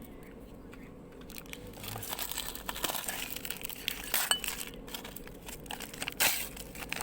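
Metal parts and tools being handled on a workbench: irregular clinks, rattles and clicks that start about a second in, with two sharper knocks partway through and near the end.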